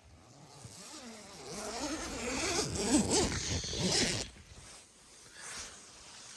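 A zipper pulled in one long stroke of about four seconds, getting louder as it goes and stopping abruptly.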